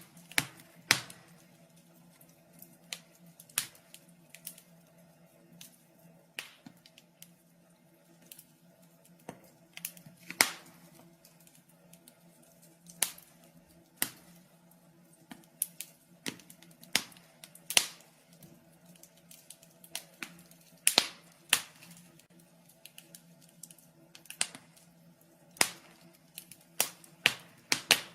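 Wood fire burning in a fireplace, crackling and popping in sharp irregular snaps at uneven intervals, some louder than others, over a faint steady hum.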